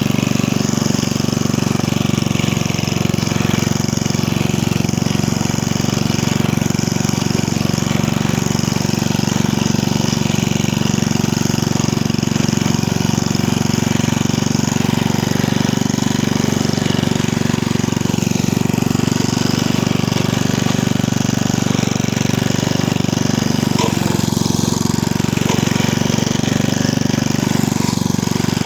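1979 Briggs & Stratton 5 hp Industrial/Commercial 206 cc single-cylinder side-valve engine on a Hayter Hayterette rotary mower, running at a steady, even speed with no change in pitch.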